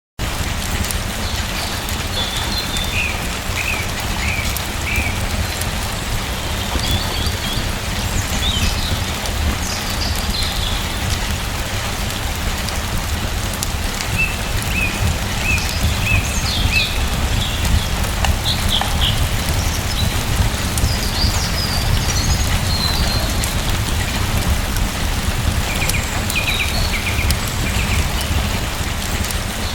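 Steady rain falling, with small birds chirping in short runs every few seconds over it.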